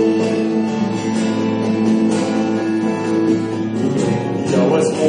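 Instrumental break in a song: acoustic guitar playing chords over sustained notes, with busier strumming near the end.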